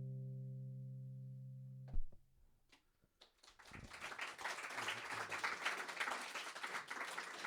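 Final acoustic guitar chord ringing and fading, stopped by a muted thump about two seconds in. After a brief silence, audience applause starts and keeps going.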